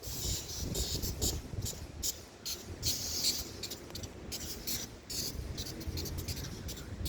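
Railway station ambience: a low rumble with irregular bursts of high-pitched hissing or chirping.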